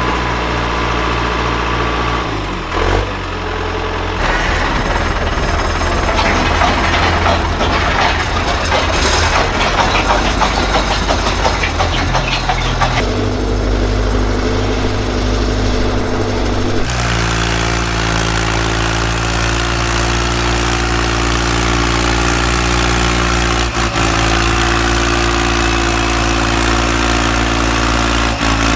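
Tractor engine running steadily at idle, with a louder, rougher stretch for several seconds in the middle.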